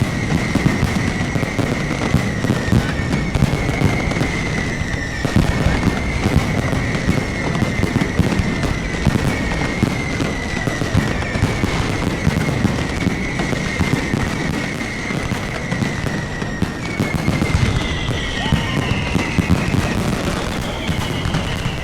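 Aerial fireworks going off in a dense barrage of crackling and bangs, with a string of whistles each falling in pitch, about one every two seconds.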